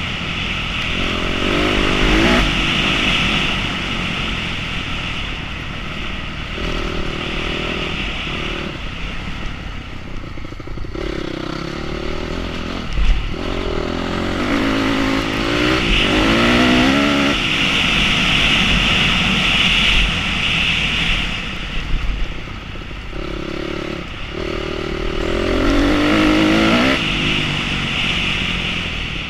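Enduro motorcycle engine revving up and easing off again and again, the pitch climbing through several accelerations, over a steady hiss, with a brief sharp knock about halfway through.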